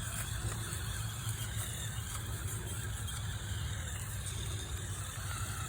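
Small electric motors and plastic gearing of a cheap 4WD climbing RC truck whining as it strains up a steep hill, wavering with the load, over a steady low rumble.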